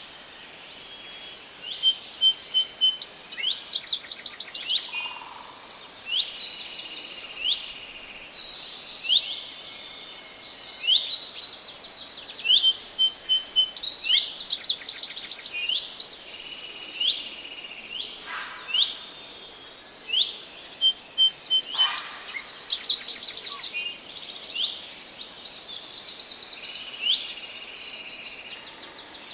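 Several songbirds singing at once in a thick, overlapping chorus of chirps, quick trills and high downward-sweeping notes. A short run of about four evenly spaced notes comes back several times.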